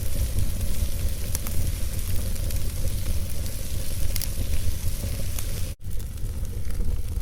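Wood fire burning in a fireplace: logs crackling with scattered sharp pops over a steady low rumble. The sound cuts out for an instant about six seconds in.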